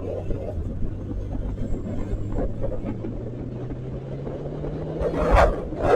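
Vehicle engine idling with a steady low hum, its pitch creeping up slightly near the end, and a short loud burst of noise about five seconds in.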